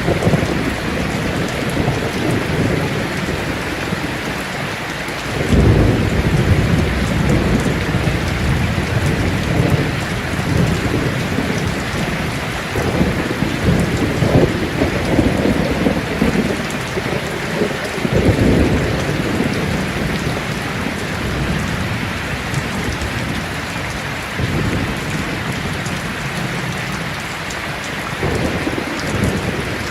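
Heavy rain on a tin roof, a steady hiss, with rolls of thunder rumbling in and fading several times, the biggest about five seconds in.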